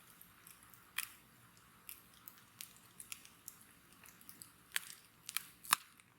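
Wood bonfire crackling: irregular sharp pops and snaps over a faint hiss, with the loudest about a second in and a cluster of louder snaps near the end.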